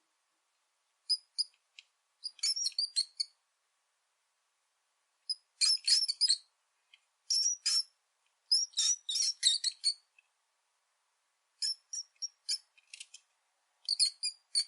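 Rat squeaking: clusters of short, high-pitched squeaks, about seven bursts of several squeaks each, separated by silent gaps of a second or more.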